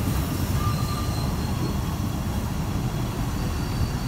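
Narrow-gauge railway carriages rolling slowly past, a steady low rumble of wheels on rail with faint thin squeals from the wheels now and then.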